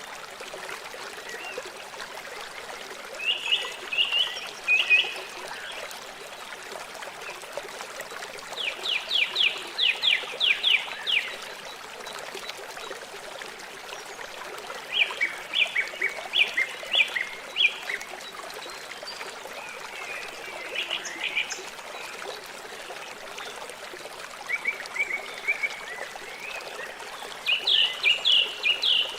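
River water flowing in a steady rush, with an animal calling over it in six short bursts of rapid repeated notes.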